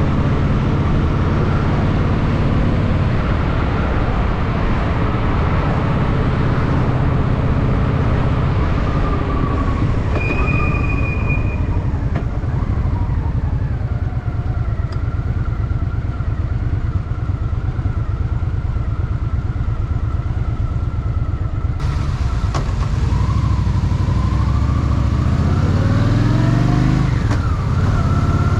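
Honda Shadow VT750's V-twin engine running under way, its note steady for most of the stretch. Near the end it revs up as the bike accelerates, drops briefly at a gear change, then rises again.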